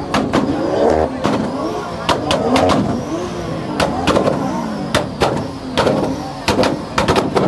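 Car engines revving up and down, with many sharp, irregular cracks and pops.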